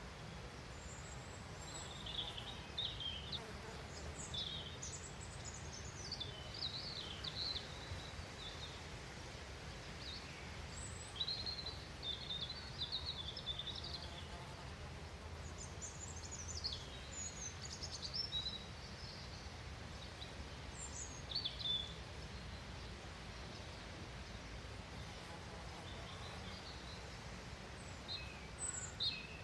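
Songbirds chirping and twittering in short scattered phrases over a steady low background rumble.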